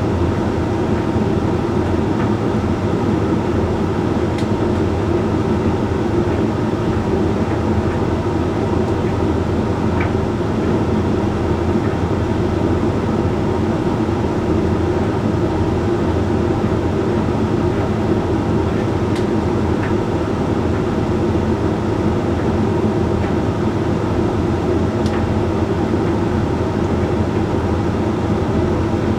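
Hoover Link X Care HLX C10DRGR condenser tumble dryer running steadily mid-cycle on its Whites programme: an even hum of the motor and fan as the drum turns, with a few faint ticks scattered through.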